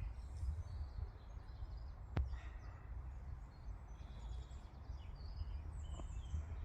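Outdoor ambience: a steady low wind rumble with faint, scattered bird chirps, and a single sharp click about two seconds in.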